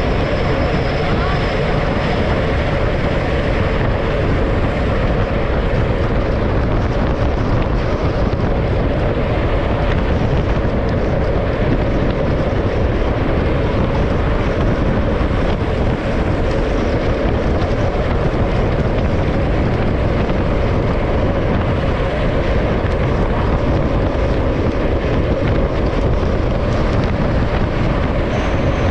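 Loud, steady rush of wind and road noise on a moving camera at speed, with a steady hum underneath.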